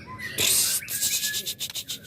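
Young white-rumped shama giving a harsh, noisy burst about half a second in, then a fast rattle of clicks, over a faint whistled note of its song.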